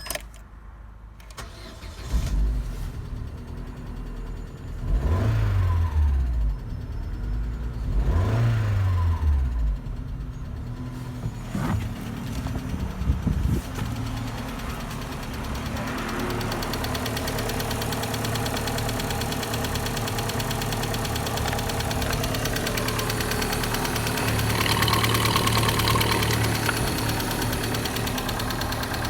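Opel Z16XE 1.6-litre four-cylinder petrol engine starting about two seconds in. It revs up and back down twice, then settles into a steady idle.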